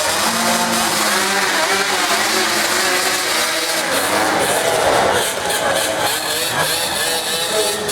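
Racing engines at a dirt drag strip running and revving, their pitch rising and falling.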